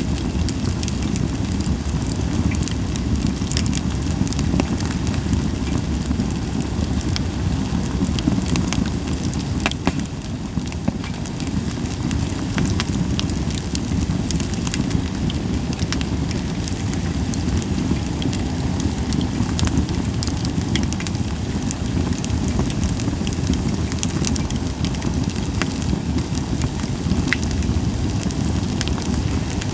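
Campfire of Japanese white pine wood burning, with a steady low rush of flame and frequent small crackles and pops, with little hissing.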